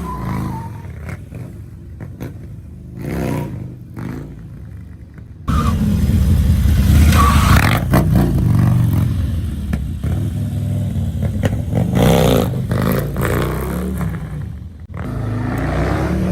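Car engines running and revving, with rising and falling engine pitch. The sound jumps suddenly louder about five seconds in.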